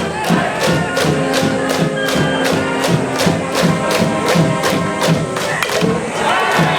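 High school baseball cheering band in the stands: brass instruments playing a cheer tune over a steady drum beat of about four strokes a second, with the crowd's chanting voices.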